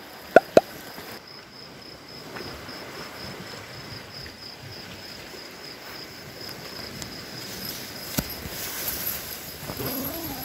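Crickets chirping at night in a steady, fast-pulsing high trill. Two sharp clicks come about half a second in, and another near the end.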